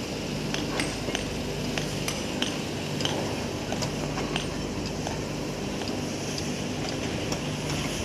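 Metal tools clicking and clinking against metal engine parts in a quick, irregular series, over a steady low machine hum.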